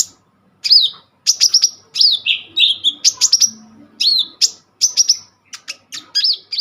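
Songbird singing a fast, busy song: quick phrases of sharp high chirps and short down-slurred whistles, one after another with brief gaps.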